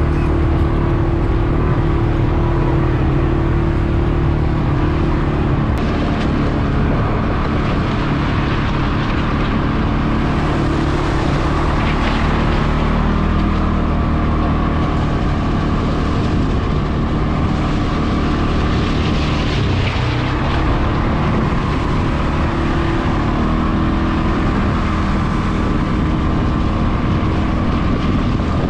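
CFmoto CForce 520 ATV engine running steadily while the quad is ridden, with a loud, even drone and a rushing noise over it that swells a few times.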